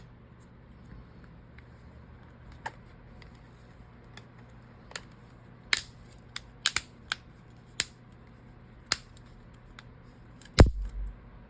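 Sharp small clicks and taps of tools and plastic phone parts being handled during reassembly: about ten, irregularly spaced and mostly in the second half, with one louder knock near the end. A faint steady low hum runs underneath.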